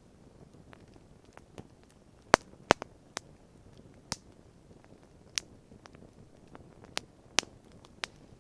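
Wood campfire crackling: irregular sharp pops and snaps, the two loudest a little over two seconds in, over a faint low background.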